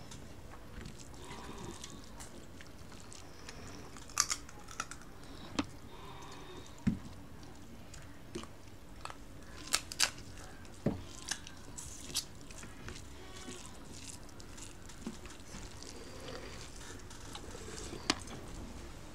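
People chewing crab with rice, with crab shell crunching and cracking between the teeth: about a dozen sharp, irregular cracks over quiet chewing.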